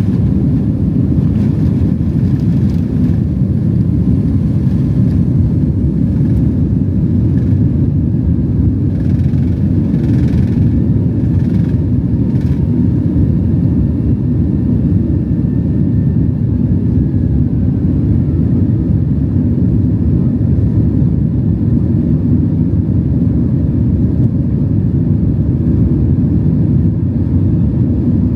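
Cabin noise of a Boeing 767-300 with its twin jet engines at high power: a loud, steady low roar.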